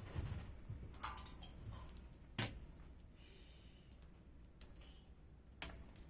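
Wood campfire crackling quietly, with a few sharp pops several seconds apart over a low steady background.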